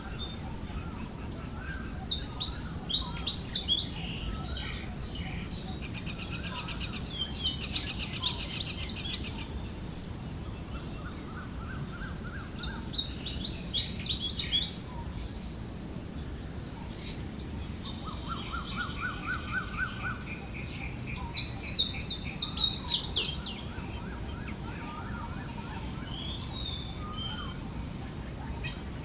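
Several forest songbirds chirping and trilling in scattered bursts, including quick rattling trills, over a steady high insect-like drone and a soft low rush of breeze.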